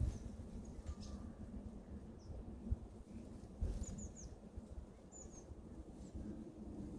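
Small garden birds giving short, high chirps: a quick run of three about four seconds in and two more a second later, with a few fainter ones, over a low steady background rumble.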